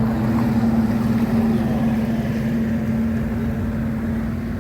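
A motorboat's outboard engine running steadily, a constant hum with no change in speed.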